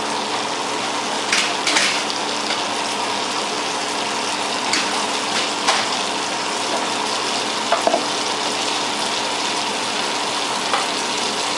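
Butter melting and sizzling in a frying pan on the stove: a steady hiss with several sharp crackles and pops scattered through.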